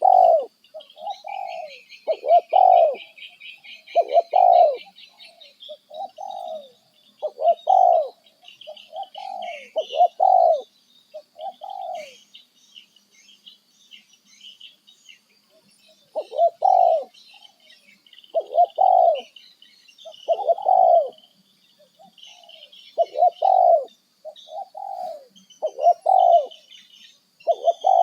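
Birds calling: a loud low call repeated about every second or two, pausing for a few seconds midway, over continuous high twittering of smaller birds.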